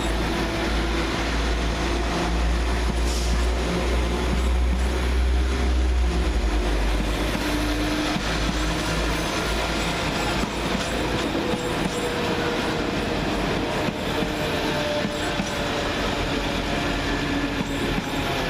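Two coupled Class 172 Turbostar diesel multiple units pulling out, their underfloor diesel engines running under power. A heavy low rumble eases about seven seconds in, and steady engine tones and wheel-on-rail noise carry on.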